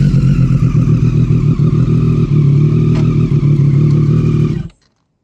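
Triumph Street Triple 765 RS three-cylinder engine running at a steady, held pitch through a Scorpion Serket Taper carbon silencer with the dB killer removed. The sound cuts off suddenly near the end.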